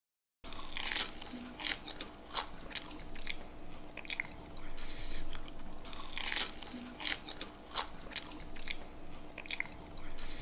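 Close-up crunching and chewing of crispy Indonesian fried snacks (gorengan), a crisp crunch every half second to a second over a faint steady hum. The sound cuts in suddenly about half a second in, after dead silence.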